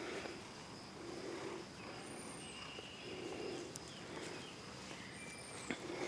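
A bird's very high-pitched short call, a quick rise and fall in pitch, heard twice about three seconds apart over a steady thin insect-like tone and soft rustling swishes every couple of seconds.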